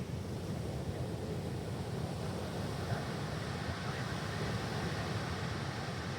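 Ocean surf on a stony beach, a steady wash with wind rumbling on the microphone; the hiss of the surf swells about halfway through.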